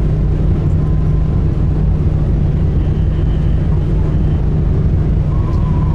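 Sightseeing boat's engines running at a steady cruise, a loud, even, low drone with a constant hum.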